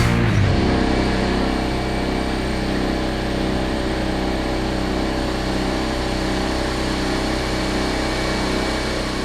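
An engine running steadily at an even idle, one constant pitched hum that does not rise or fall.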